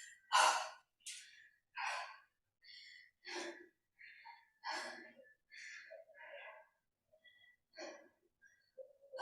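A woman breathing hard during lunges: short, hissy breaths in and out, roughly once a second.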